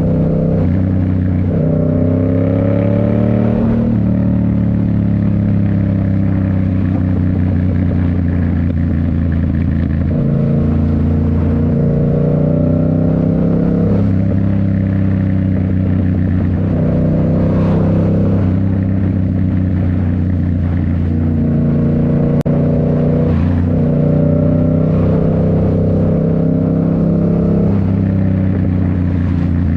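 2019 Yamaha MT-07's 689 cc parallel-twin engine through a Toce full exhaust, ridden through the gears: the engine note climbs within each gear and drops at each of several gear changes.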